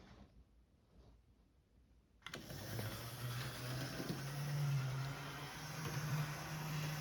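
Tyco F-unit model train locomotive running on the track: after a near-quiet start, its motor hum and wheel-on-rail hiss come in suddenly about two seconds in and keep going, with a low drone that shifts slightly in pitch.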